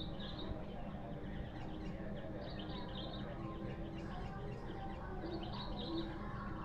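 Sooty-headed bulbul (kutilang) chirping in short bubbly phrases, three times about two and a half seconds apart, over a low steady hum.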